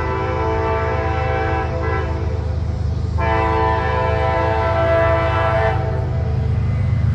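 A train's multi-chime air horn sounds two blasts. The first fades out a couple of seconds in, and the second starts suddenly about three seconds in and lasts about two and a half seconds, all over a steady low rumble.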